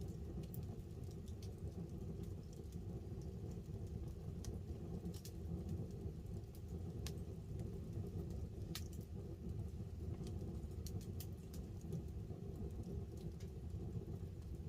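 Wood fire burning under a tarp with scattered sharp crackles and pops over a steady low rush, and light rain pattering.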